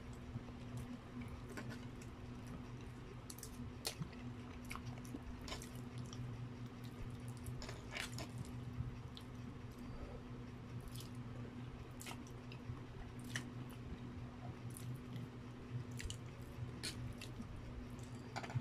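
Close-up chewing of a mouthful of spaghetti, with scattered short sharp clicks, over a steady low hum.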